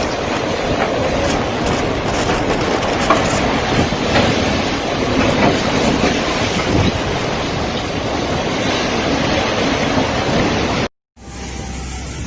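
Storm wind blowing hard and steadily, with a few faint knocks and rattles. About eleven seconds in it cuts off briefly and comes back as a quieter wind hiss.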